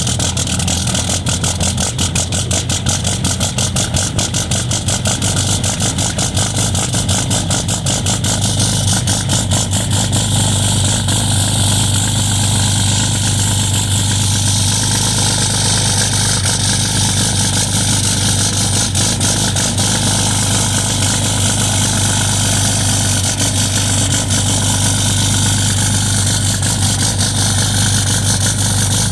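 2015 Ram 3500's 6.7-litre Cummins inline-six turbodiesel idling just after a cold start. A fast, even clatter is prominent for the first ten seconds or so, then the running settles into a steadier, smoother drone.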